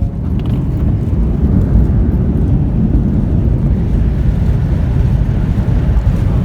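Steady, loud low rumble inside the cabin of a Boeing 737-800: engine and airflow noise on the final stage of the flight into Lisbon.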